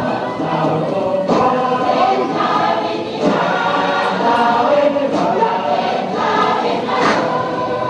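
A group of voices singing together in harmony, the song accompanying a Samoan taupou dance.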